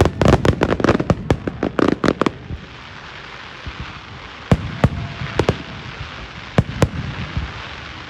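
Fireworks going off: a dense run of rapid sharp cracks for about two seconds, then a steady hiss with a scattered handful of single bangs.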